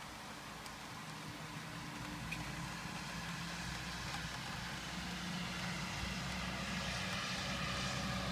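Steady rain hissing, with the low hum of a motor vehicle's engine running underneath that grows gradually louder.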